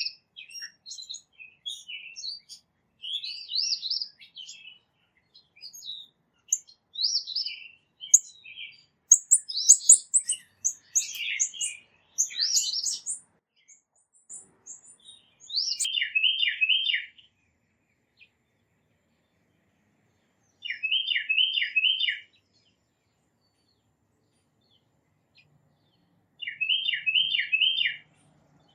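Small songbirds chirping in a busy, overlapping jumble of short high calls. Then a single bird sings three times, a few seconds apart, each time a quick run of four identical notes.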